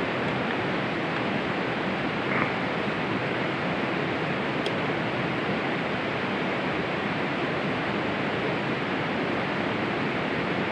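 Steady outdoor rushing noise, an even hiss with no breaks, with one light tick about two and a half seconds in.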